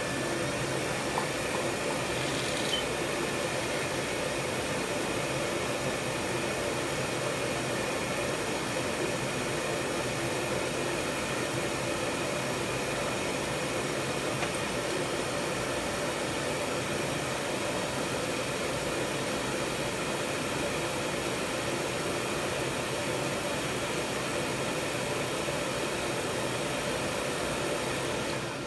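System 2000 oil boiler's burner running with a steady whooshing blower noise and a faint hum, then cutting off abruptly at the end. There is still air in the oil line, so the burner fails to stay lit.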